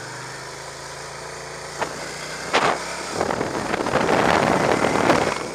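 Motorcycle engine ticking over steadily, then, after a couple of sharp clicks about two seconds in, pulling away with the engine and wind noise on the microphone growing louder.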